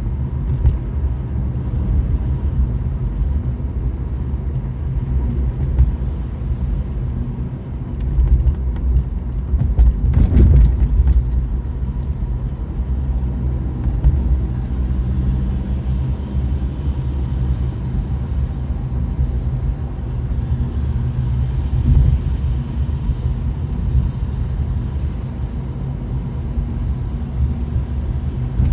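Steady low road and engine rumble inside a moving car's cabin, with a louder swell about ten seconds in.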